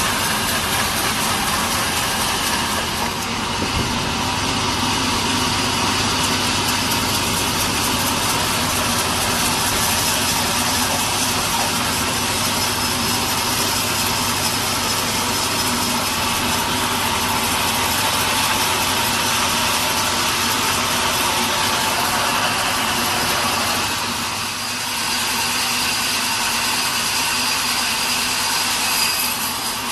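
Sawmill machinery running steadily, a loud, dense mechanical noise with a short dip in level a little before the end.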